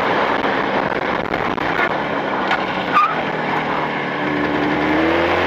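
Motorcycle engine running on the road during break-in on newly fitted cylinders, with wind rush. There is a short click about three seconds in, and near the end the engine note rises as it speeds up.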